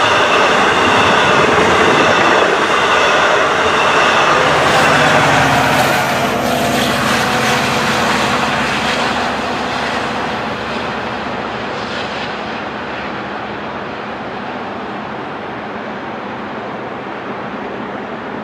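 A Long Island Rail Road train running past on the rails, loud for the first six seconds, then fading steadily as it moves away.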